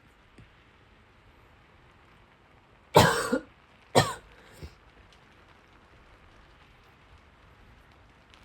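A person coughs twice, about a second apart, with a softer third sound just after, over a faint steady hiss of rain.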